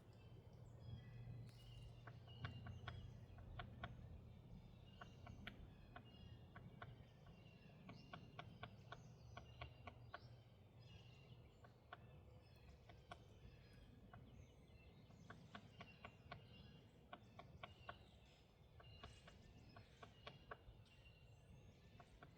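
Faint outdoor ambience: birds chirping in many short, repeated notes over a low steady rumble.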